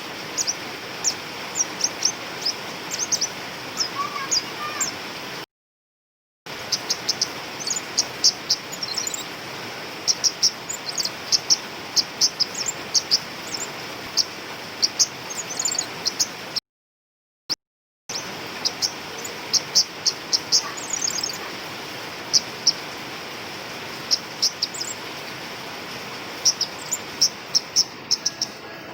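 Female flowerpecker (cabai rimba) giving rapid series of short, sharp, very high 'tsit' call notes, over a steady hiss. The sound drops out completely twice, briefly.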